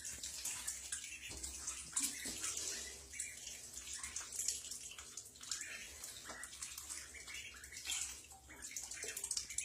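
Ducklings splashing and paddling in bathtub water: a run of small, irregular splashes and water sloshing.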